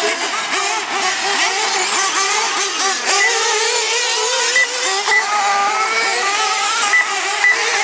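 Several radio-controlled monster trucks and truggies racing together, their small engines whining and revving up and down in overlapping, constantly changing pitches.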